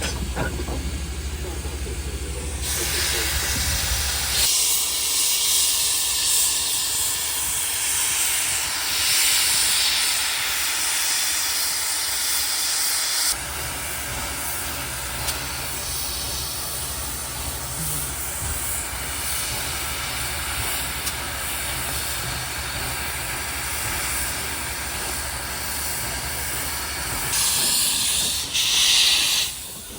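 Steam locomotive hissing as it vents steam, with louder bursts of steam near the start and near the end.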